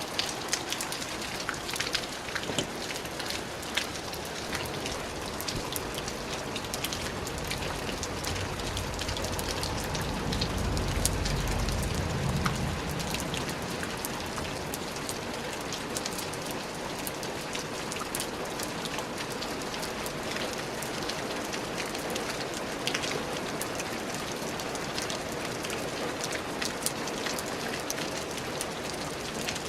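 Steady rain falling, with many individual drops ticking sharply on a surface. A low rumble swells and fades about ten seconds in.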